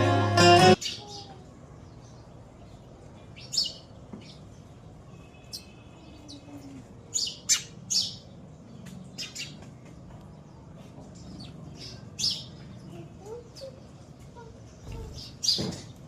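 Small birds chirping: short, separate high chirps every second or so, some in quick pairs. Background music with plucked strings stops about a second in.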